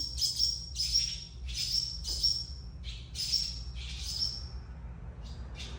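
Small birds chirping in quick runs of short, high calls, which thin out to a few chirps after about four seconds.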